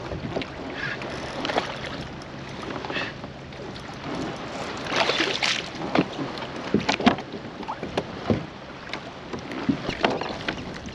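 Irregular knocks, rattles and water sounds aboard a fishing kayak, over a steady background of water and wind noise.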